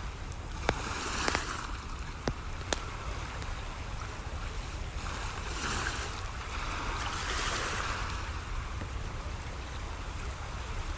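Ocean waves washing in, swelling and easing in slow surges over a steady low rumble. Sharp pops from a wood campfire come a few times in the first three seconds.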